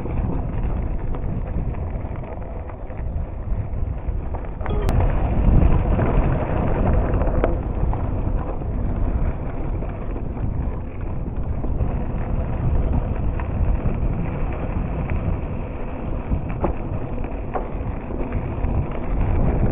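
Wind buffeting the microphone over the steady rolling noise of a bicycle being ridden, with a few light clicks and rattles from the bike.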